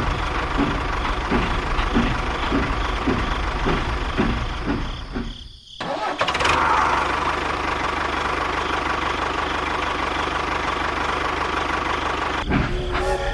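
An engine running with a chugging beat about twice a second. It drops out briefly about five and a half seconds in, then comes back and runs on steadily.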